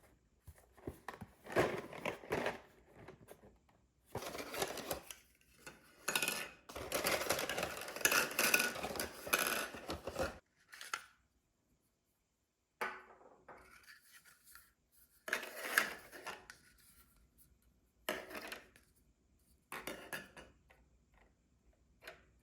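Kitchen handling sounds: dishes and utensils clinking and scraping in irregular bursts, the longest running about four seconds near the middle, with short pauses between.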